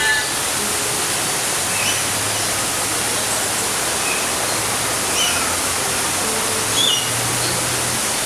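Short bird chirps, scattered a few seconds apart, over a steady rushing noise like falling water.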